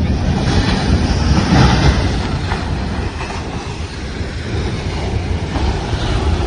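Ocean surf rushing and washing in, a loud steady roar that swells about a second in and stays high.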